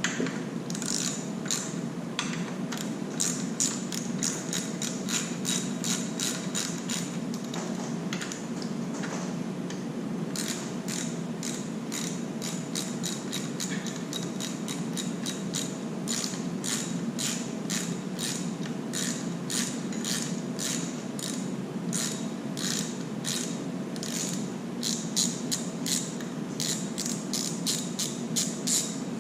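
Hand ratchet wrench clicking in runs of quick clicks as bolts are backed out of a 2JZ-GTE oil pump, over a steady low hum.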